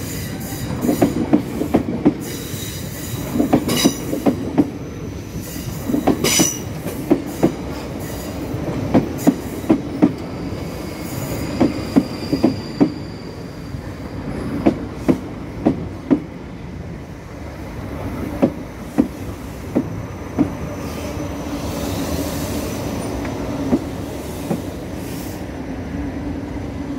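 Class 458 Juniper electric multiple unit passing over pointwork: its wheels clack over the rail joints and crossings in clusters that grow sparser toward the end, over a steady rumble, with thin wheel squeal.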